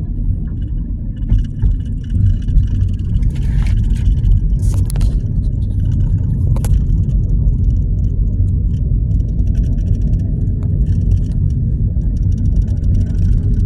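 A train passing close by with a steady low rumble, scattered clicks, and a few brief high hissing sounds.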